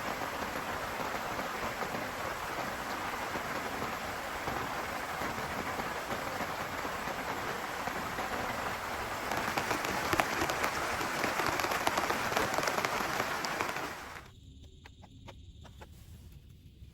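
Heavy rain pouring steadily, growing louder about nine seconds in. Near the end it cuts off abruptly to a much quieter background with a few scattered ticks of drops.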